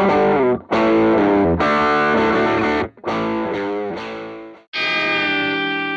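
Electric guitar through a Caline Leon Drive, an OCD-style overdrive pedal, playing distorted chords. Two brief breaks come about half a second and three seconds in, and a final chord near the end is left to ring and fade.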